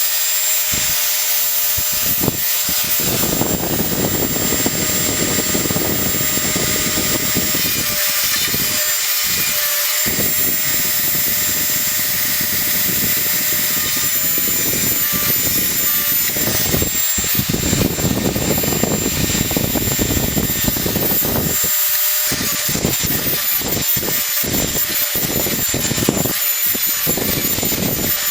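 Dremel rotary tool with its chainsaw sharpening attachment running at high speed, a small grinding stone filing the chainsaw's cutter teeth. The steady high whine of the motor goes on throughout, while the grinding noise comes and goes in short passes, tooth after tooth.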